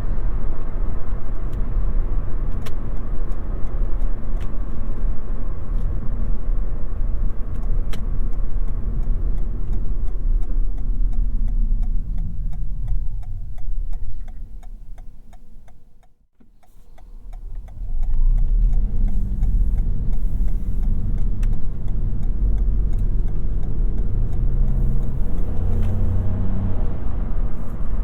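Toyota Yaris 1.5 hybrid being driven, its tyre and road noise a steady low rumble. The noise fades away almost to nothing a little past halfway, then comes back within about two seconds.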